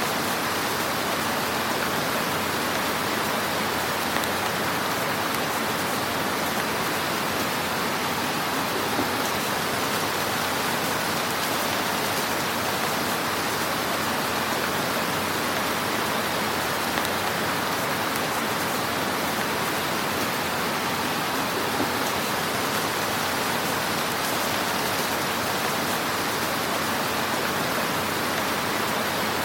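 Wood fire in a fireplace crackling steadily, a dense hiss of small crackles with a few slightly louder pops scattered through.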